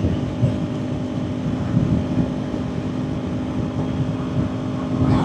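Kawasaki Ninja 400's parallel-twin engine running steadily at highway cruise with wind rush, a constant drone that holds one pitch.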